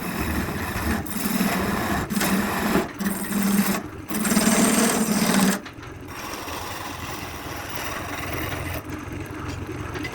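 A small electric motor, such as a power tool's, running with a steady hum in short stretches cut together; after about five and a half seconds the hum gives way to a quieter, hissing noise.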